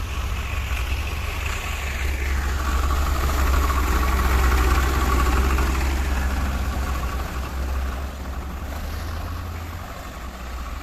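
Tractor engine running steadily with a deep hum, and a whine above it that falls in pitch about two seconds in; it grows a little louder midway and eases off near the end.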